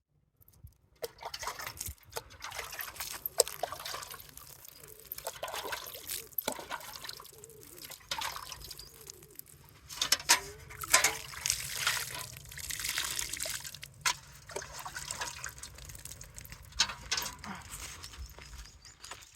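Water being poured and splashing in an uneven stream, with scattered clicks, starting about a second in.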